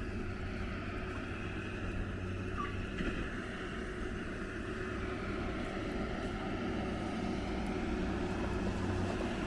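Steady low rumble of distant city traffic, with a faint hum running through it.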